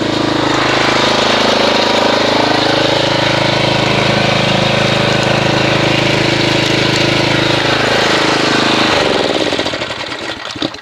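Pressure washer running steadily while spraying water into a bucket of car soap to whip up suds. About 8 seconds in, the motor winds down in pitch and stops.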